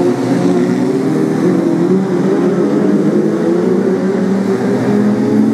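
Several BriSCA F2 stock car engines running hard together as the pack laps the oval, their engine notes wavering up and down against one another without a break.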